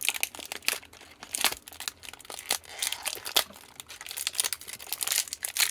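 Packaging crinkling as it is handled and opened: a dense run of irregular crackles.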